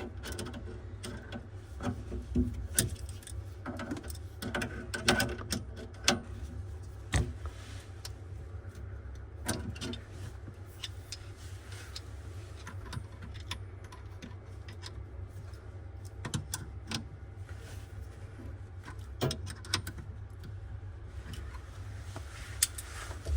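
Scattered clicks, taps and light metal clinks of parts and tools being handled during kitchen faucet replacement work, over a steady low hum. The clicks are busiest in the first half.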